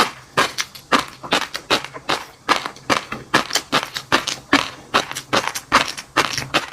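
Close-miked chewing of crunchy seafood and fish roe: a steady run of crisp crunches, about three a second.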